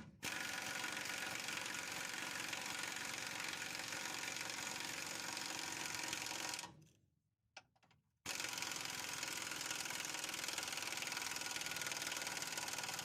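Impact wrench running a nut down onto a rear leaf-spring U-bolt, in two long steady runs with a short break about seven seconds in.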